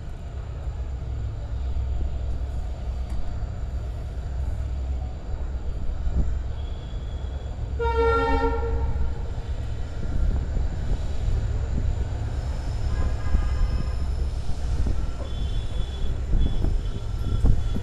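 Passenger train running with a steady rumble of its carriages on the rails. About eight seconds in, a diesel locomotive's horn sounds once for about a second.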